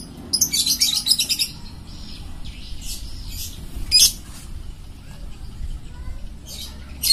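Birds chirping: a rapid run of high chirps about half a second in, then scattered single chirps.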